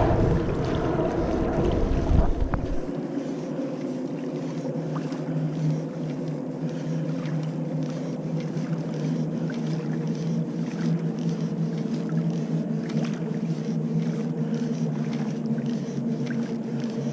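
Steady low motor hum on the water, with small water splashes and ticks. A heavy low rumble in the first few seconds cuts off sharply about three seconds in.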